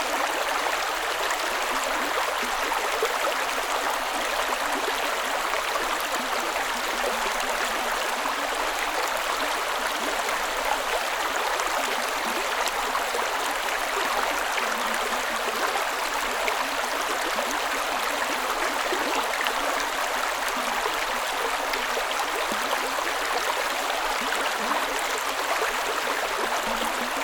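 Creek water flowing steadily: a continuous, even rushing of running water with little low rumble.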